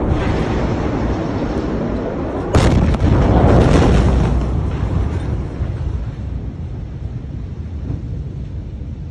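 A large explosion goes off about two and a half seconds in: a sudden deep boom that rolls on loudly for a second or two, then dies away into a fading rumble.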